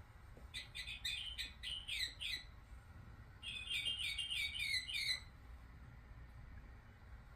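Electronic bird toy chirping: two quick runs of high, bird-like tweets, about four or five a second, the second run starting about three and a half seconds in and stopping a little past the middle.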